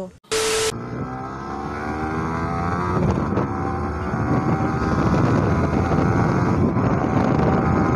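Yamaha sportbike's engine accelerating hard, its pitch climbing, with a short break about three seconds in at a gear change. Wind rush on the microphone grows as the speed builds.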